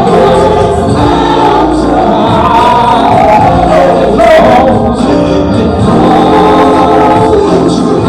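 Gospel choir singing over a loud band accompaniment with a heavy bass line.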